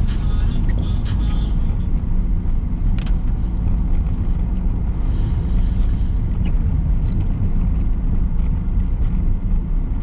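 Car driving in heavy rain, heard inside the cabin: a steady low rumble of engine and tyres, with a louder hiss in the first two seconds and again around the middle.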